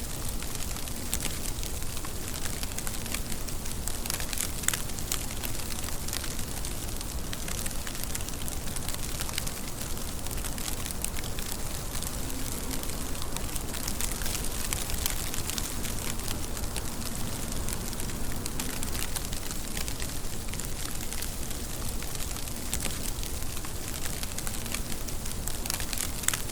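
Steady rain: an even hiss with a dense patter of individual drops ticking on a surface, unchanging throughout.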